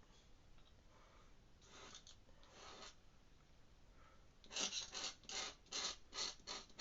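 An ink pen scratching across paper in short strokes: two faint strokes about two seconds in, then a quick run of about seven louder strokes in the last two seconds.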